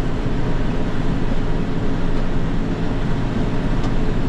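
John Deere 7210 tractor's diesel engine running steadily under load while pulling a hay baler in the field.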